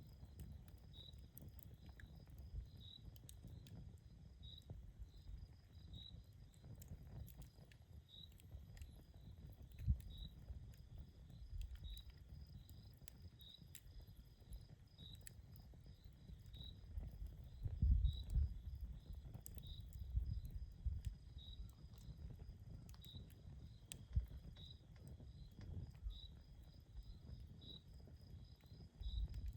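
Campfire crackling, with scattered small pops over a low rumble that swells louder around the middle. A cricket chirps steadily beside it, about one short high chirp a second.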